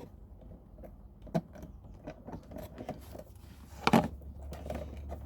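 Small clicks, taps and rustling of hands working stranded electrical wire and tools at a panel terminal, with a sharper knock about four seconds in. A low steady hum sets in shortly before it.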